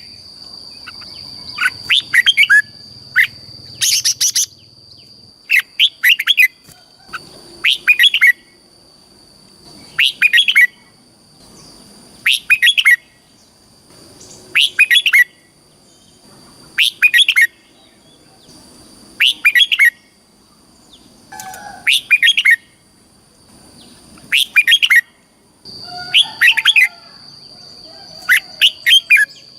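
Red-whiskered bulbul singing short, loud warbled phrases, one about every two seconds, over a steady high-pitched whine that briefly stops near the end.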